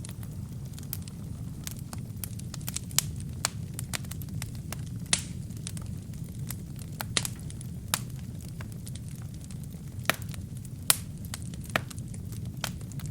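Wood fire burning in a fireplace: a steady low rumble of flames with sharp, irregular crackles and pops from the burning wood.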